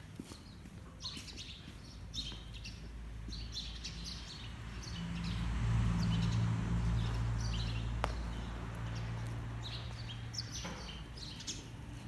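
Small birds chirping over and over, with a low steady hum that swells in the middle and slowly fades.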